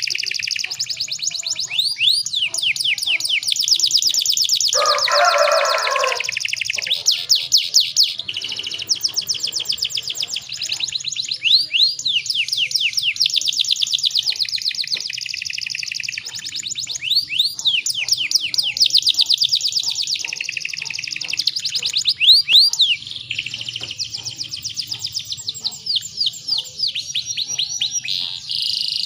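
Canary singing a continuous song of fast rolling trills and repeated sweeping notes. About five seconds in there is a brief lower noise, and a faint low hum runs underneath.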